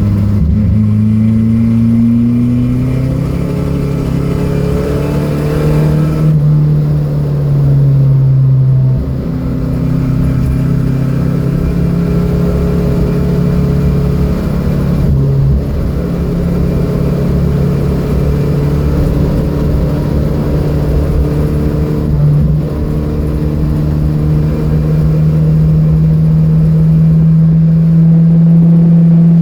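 Datsun B210's engine running hard under load, its pitch climbing with the revs, then dropping at two upshifts about six and nine seconds in. After that it holds a long, slowly rising note at high revs.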